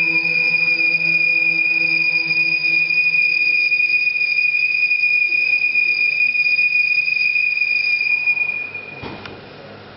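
A single high, whistle-like tone held steady over a low drone that fades out about four seconds in. The tone stops about eight and a half seconds in, leaving quieter room sound with a short knock.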